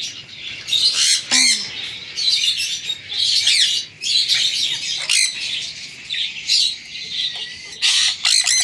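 Pet parrots squawking and chirping: a run of harsh, high calls, one after another, some overlapping.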